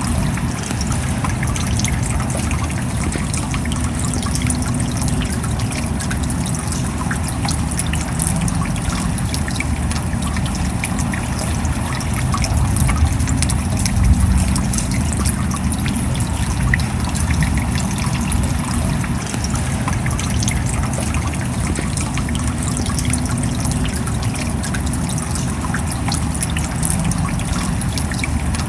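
Steady rain falling: a dense patter of drops over an even hiss and low rumble, swelling slightly about halfway through.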